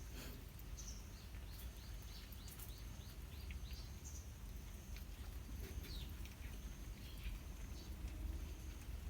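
Small birds chirping, a run of quick falling notes about four a second, over a steady low rumble with a few faint clicks.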